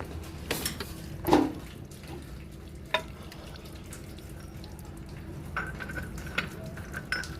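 Scattered clinks and knocks of metal engine parts being handled, over a steady low hum.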